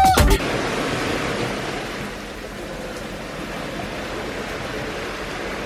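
Ocean surf washing onto a beach: a steady rush of noise that eases slightly after the first couple of seconds.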